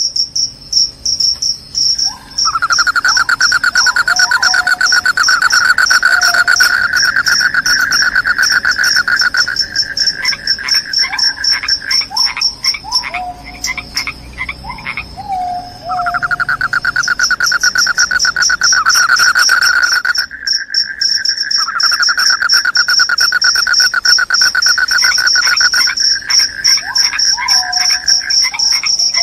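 Crickets chirping in a loud, rapid, high-pitched pulsing trill. A lower-pitched, louder pulsing trill comes in a few seconds in and again about halfway, each time for about ten seconds, with short falling calls mixed in.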